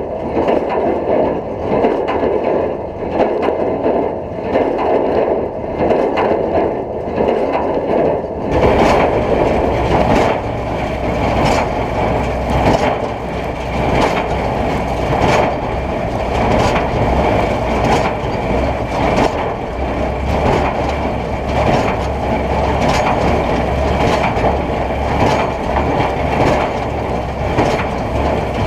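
Oliver 770 tractor running while pulling a Case 230 square baler, with the baler's mechanical clatter and crunching over the engine. The sound changes abruptly about eight seconds in, getting deeper and harsher.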